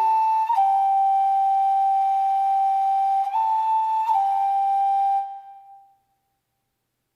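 Instrumental music: a slow flute-like melody of long held notes, moving back and forth between two pitches, that fades out about five to six seconds in.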